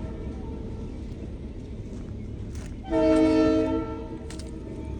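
Diesel locomotive air horn sounding one blast of about a second, several notes at once, about three seconds in, over the steady low rumble of the passing train.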